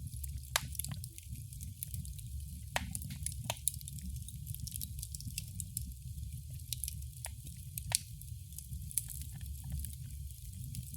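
Fire crackling in a fireplace: irregular sharp pops and snaps, a few louder than the rest, over a steady low rumble and hiss of the flames.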